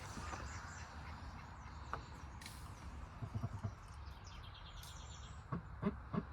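Birds chirping in the background, with a quick run of repeated chirps about four seconds in. A few short low bumps come about three seconds in and twice more near the end.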